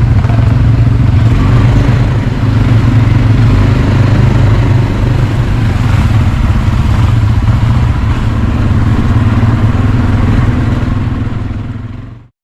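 Quad bike engine running steadily under way, fading out near the end.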